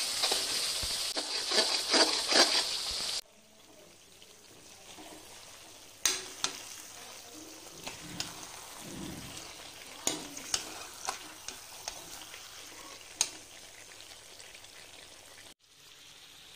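Spice masala for chicken curry frying in a metal pan, a loud sizzling hiss with crackles as it is stirred, which cuts off suddenly about three seconds in. After that, a much quieter steady sizzle of the curry cooking, with scattered sharp clicks of the stirring spoon against the pan.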